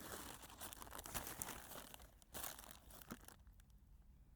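Plastic bag crinkling and rustling as it is handled, with many small crackles; it stops about three seconds in.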